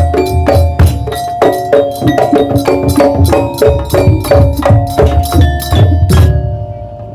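Daul Madura percussion ensemble playing a fast, dense rhythm of low drums under pitched metal gongs and chimes. The playing stops about six seconds in, leaving the metal tones ringing out.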